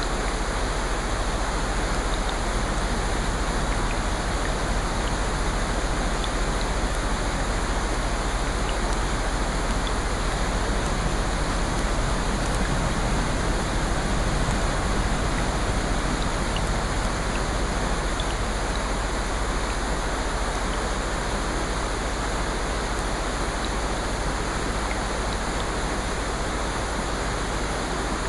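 Steady, even rushing water noise with faint scattered small ticks, unchanging throughout.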